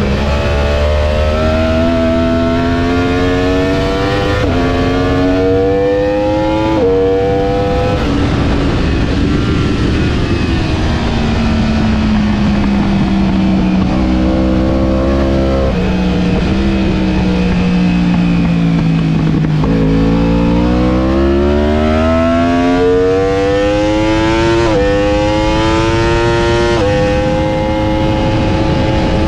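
Onboard sound of a sport motorcycle's engine at track speed, with rushing wind. It accelerates and shifts up twice in the first seven seconds, the revs fall away through a long stretch in the middle, then it accelerates again with two more upshifts near the end.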